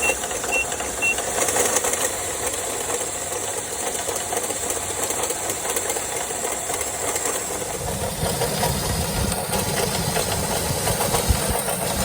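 Nissan Teana engine running with an abnormal knocking noise, the sign of an engine fault. Its low rumble grows louder about eight seconds in.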